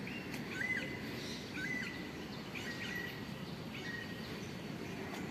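Birds chirping: short, sharp notes repeated every second or so over a steady low hum of background noise.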